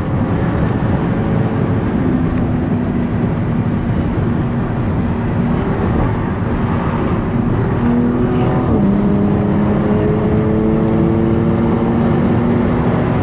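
Car engine accelerating under load, its pitch climbing slowly, then falling once about nine seconds in as it shifts up a gear, and climbing again.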